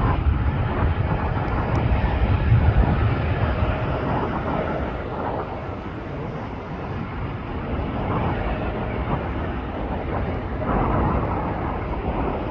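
Jet airliner engine noise, a steady noisy rumble that is loudest in the first few seconds, eases off, then swells again, with gusts of wind on the microphone.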